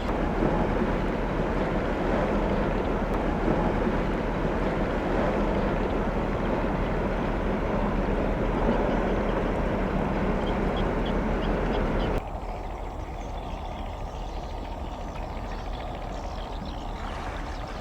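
Container ship underway in a narrow river: a steady noise of engine and moving water over a constant low hum. About twelve seconds in it drops suddenly to a quieter, thinner version of the same steady noise.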